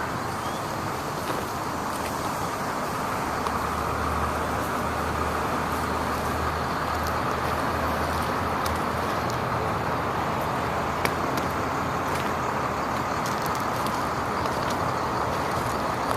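1999 International 4900 bucket truck's diesel engine running steadily, with a low hum that swells for a few seconds partway through.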